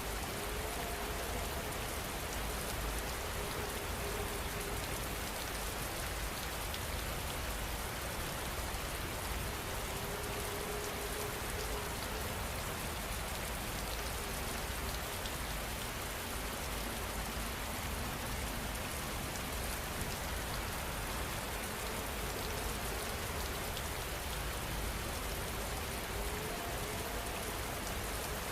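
Steady rain falling, an even hiss of many drops at a constant level throughout.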